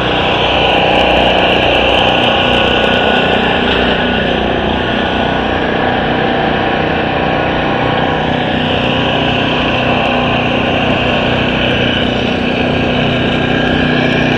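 Steady, loud engine din, made of many overlapping pitches, with no single event standing out.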